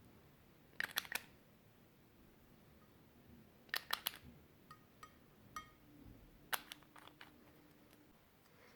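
Sharp clicks and taps in three short clusters of two to four, with a few lighter ringing ticks between them, from eyeshadow makeup and its hard cases and tools being handled and broken up.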